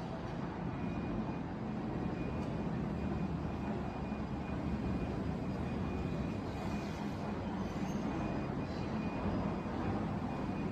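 Steady low mechanical rumble, with a faint thin steady tone above it.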